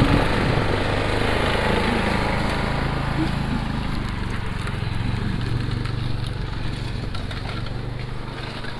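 An engine running steadily with a broad rushing noise over it, slowly fading away.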